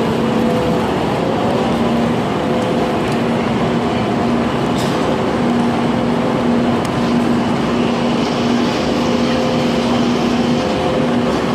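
Train at a station platform: steady, loud running noise with a low, even hum that breaks off briefly a few times, and a few faint clicks.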